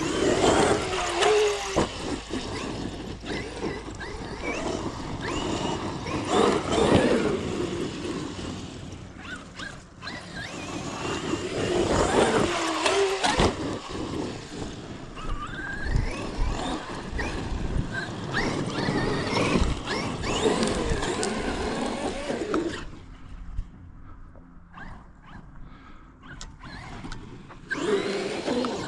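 Electric RC monster truck driving on a dirt track, its motor whine sweeping up and down in pitch with throttle in several bursts, with a quieter lull late on before it speeds up again.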